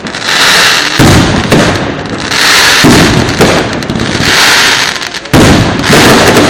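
Fireworks going off in quick succession: sharp bangs about a second in and again near the end, each followed by long crackling hiss.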